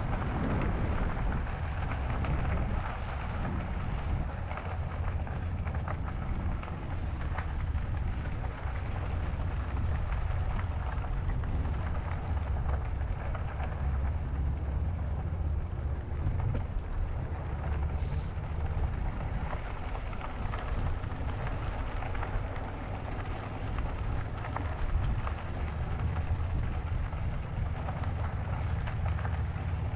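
Steady wind noise buffeting the microphone of a moving e-bike, a continuous low rumble with a rushing hiss above it.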